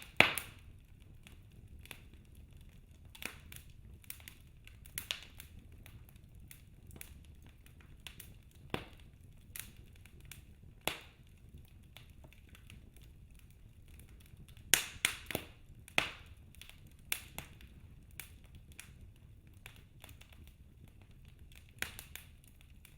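Wood fire crackling in a fireplace: scattered sharp pops of burning logs over a low, soft rumble, with a quick run of several loud pops past the middle.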